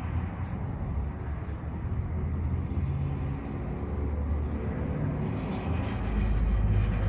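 Low, steady rumble of a motor vehicle or engine, growing louder about six seconds in.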